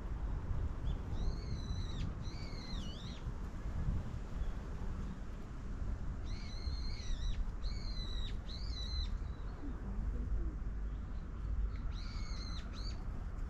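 A bird's short, high whistled calls, repeated in small groups: one about a second in, a pair soon after, three in a row in the middle and one more near the end, over a steady low rumble.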